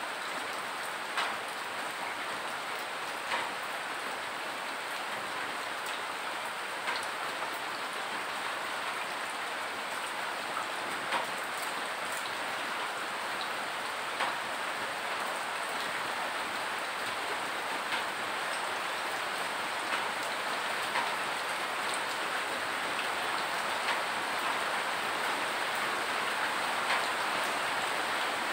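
Steady rain falling, with separate drips landing every second or two over the even patter.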